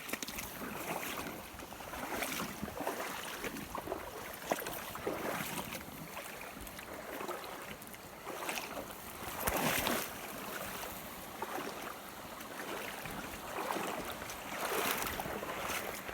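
Water sloshing and lapping with faint wind, with louder washes about ten seconds in and again near the end.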